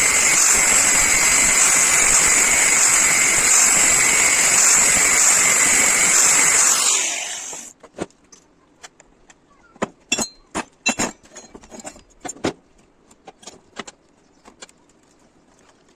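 Power tool running steadily with a high whine, then switched off and winding down about seven seconds in. It is followed by a series of light metallic clinks and knocks, some of them ringing briefly, as metal parts are handled.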